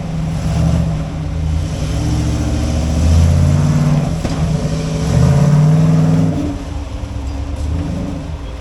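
Off-road rock-crawling rig's engine revving as it is driven forward over rocks, swelling twice under throttle and easing off near the end.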